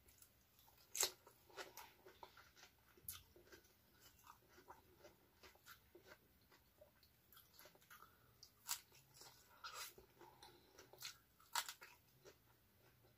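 Close-up eating of raw vegetables: quiet chewing broken by several sharp crunches and bites, the loudest about a second in and again near the end.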